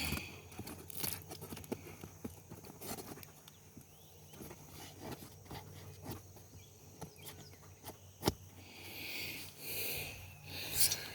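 Scattered rustling and small clicks of a turkey decoy being handled and set back upright, with one sharper knock about eight seconds in.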